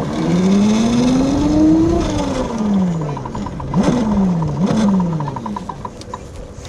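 Razor MX350 electric mini dirt bike's motor whining, rising in pitch for about two seconds as it speeds up, then falling as it slows. Two short spurts of throttle follow, each rising briefly and dying away, with a fast ticking rattle in the middle.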